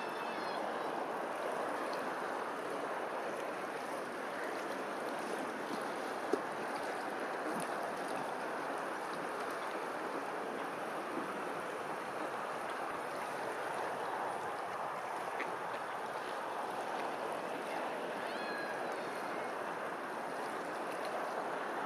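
Steady rushing of flowing water, with a few faint, short, high bird chirps and one brief click about six seconds in.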